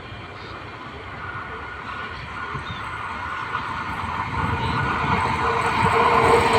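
An electric multiple unit (EMU) local train approaching, its rumble and motor hum growing steadily louder over the seconds.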